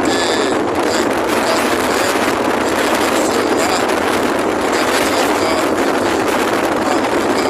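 Strong wind buffeting the microphone: a loud, steady rushing noise that does not let up.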